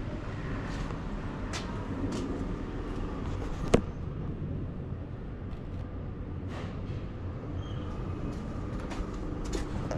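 Street ambience: a steady low hum of traffic and machinery, with scattered light clicks and one sharp knock about four seconds in.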